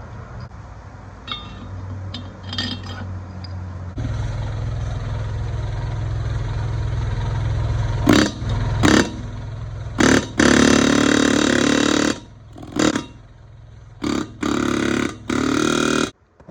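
A power tool run in a series of short trigger bursts, each starting and stopping abruptly, over a steady low hum. A few faint metal clinks come before it.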